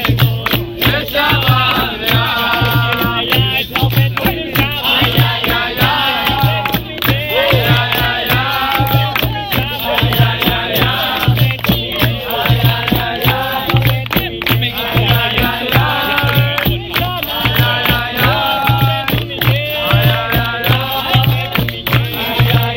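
Capoeira roda music: group singing over a steady drum beat and rattling hand percussion, in the style of a berimbau, pandeiro and atabaque ensemble.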